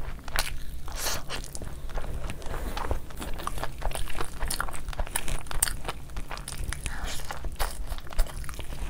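Close-miked eating of chicken biryani by hand: chewing and wet mouth sounds with frequent quick crunches and clicks, and fingers squishing through the rice.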